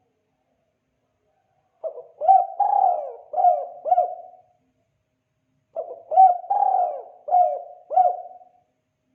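Spotted dove (tekukur) cooing in the 'kuk 2' call style: two phrases of about five notes each, a little over a second apart.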